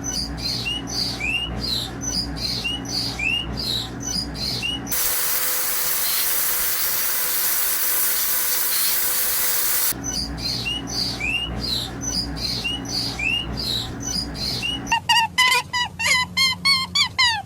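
Small birds chirping in short, repeated upward-hooked notes about twice a second, broken for about five seconds by a steady hiss. Near the end comes a faster run of louder, pitched calls, about four a second.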